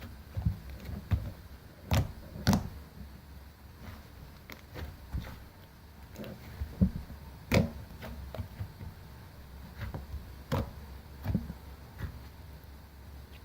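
About ten knocks and thumps at irregular intervals over a steady low hum, the loudest pair about two and two and a half seconds in and another near the middle.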